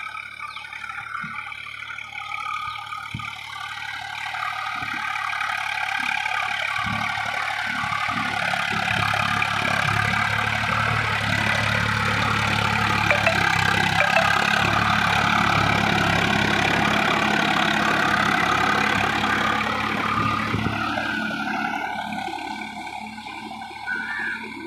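Tractor engine running, growing louder over several seconds, holding, then fading away, as if it drives past close by.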